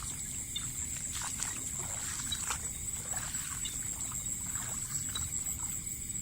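Water sloshing and splashing in short, irregular strokes, over a steady high-pitched insect drone.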